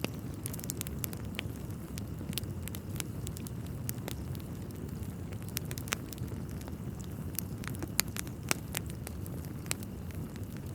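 Wood fire in a fireplace crackling, with irregular sharp pops over a low steady rumble; two louder pops come near the end.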